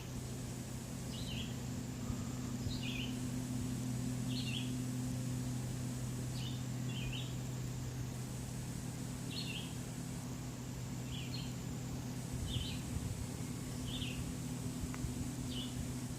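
A bird chirping a short high call over and over, about once every second and a half, over a steady low motor hum.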